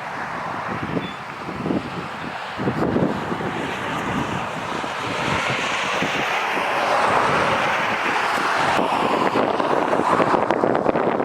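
Wind rushing across the microphone. It buffets in uneven gusts at first, then becomes a steadier, louder rush from about halfway.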